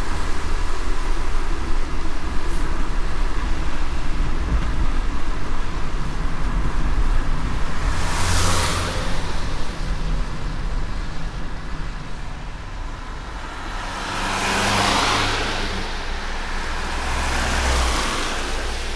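Car driving on a wet road in light rain: a steady low road rumble and tyre hiss, with three louder swishes of wet-road spray, one about eight seconds in and two near the end.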